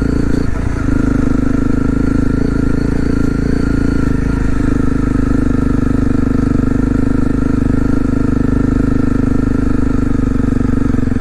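Honda CRF250L's single-cylinder four-stroke engine running at a steady speed while the bike is ridden, with a brief break in the engine note about half a second in.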